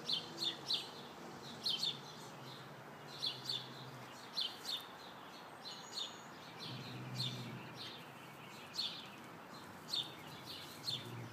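A small bird chirping nearby: short high chirps, often in pairs, repeated a second or so apart, over a faint low hum.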